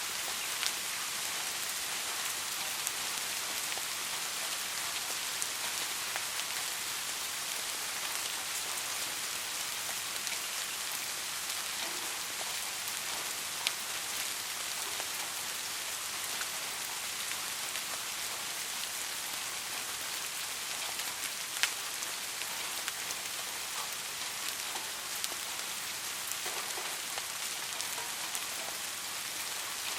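Steady soft rain falling, an even hiss with scattered sharper drips; two louder drops stand out, about halfway through and about two-thirds of the way in.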